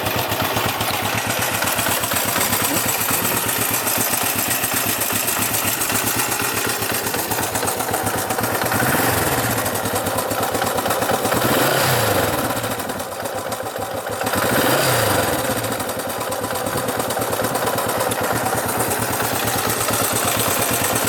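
1967 Honda CB450's 444 cc twin-cam parallel-twin engine idling steadily after a cold start. About midway through, the throttle is blipped three times, the pitch rising and falling back to idle each time.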